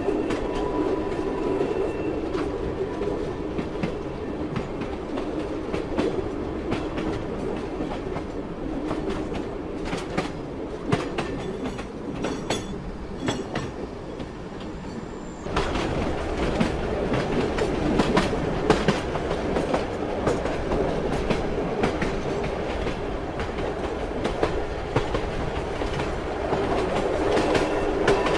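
Train wheels clattering over the rails with a steady rumble and scattered sharp clicks, growing suddenly louder about halfway through.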